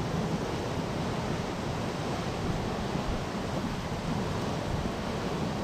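Heavy thunderstorm downpour: a steady, even rush of rain.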